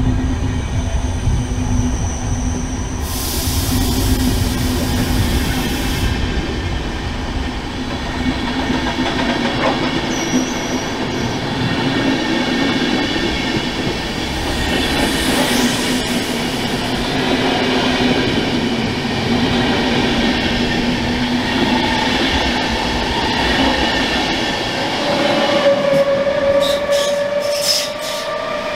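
SBB electric passenger train running past along the platform: a steady rumble of wheels on rail with an electric hum. Near the end a rising whine and sharp metallic wheel squeals come in as the last coaches go by.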